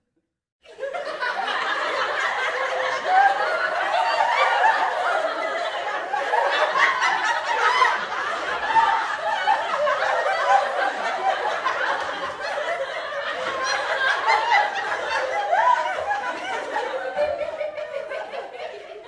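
A group of people laughing and chuckling, many voices overlapping, starting about a second in and easing off slightly near the end.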